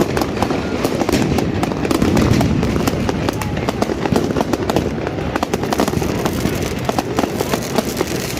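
New Year's fireworks and firecrackers going off all around: a dense, irregular stream of sharp bangs and cracks, many overlapping, over a steady low rumble.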